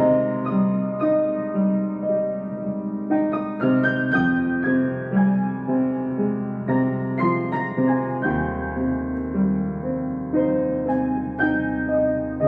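Solo piano playing a slow, gentle melody: single notes struck about every half second and left to ring over held lower notes, with a deeper bass note coming in about two-thirds of the way through.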